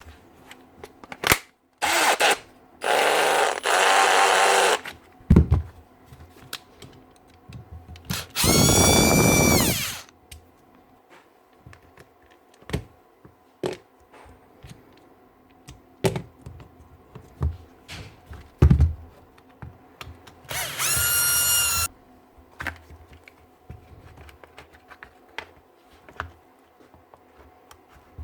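Milwaukee M18 Fuel brushless drill triggered in several short runs of a second or two, its motor whining up to speed and winding down each time, with clicks and knocks of handling in between. The rough, grinding run comes from a failed front bearing on the rotor.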